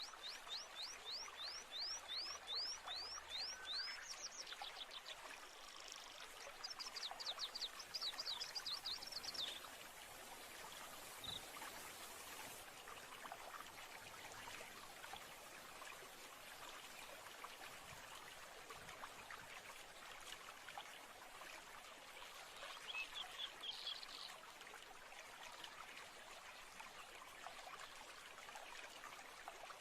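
Steady flowing water, like a trickling stream, with a songbird singing runs of quick, high down-slurred notes at the start. A faster run follows a few seconds later, then a brief burst about three-quarters of the way through.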